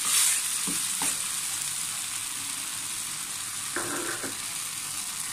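Chicken and vegetable filling sizzling steadily in a steel frying pan while a metal spoon stirs through it, scraping the pan a few times.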